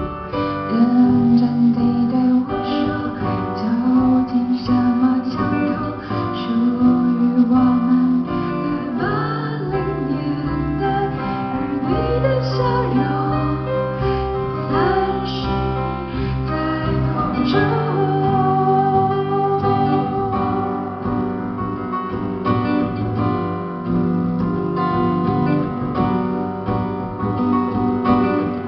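Live performance of a Mandarin pop ballad: a woman singing over strummed acoustic guitar and piano.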